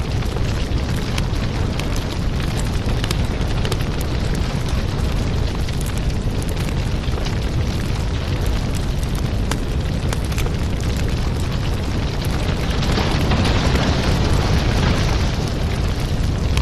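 Wood fire crackling and popping over a steady low rumble, with a louder rush of hissing flame about two-thirds of the way through.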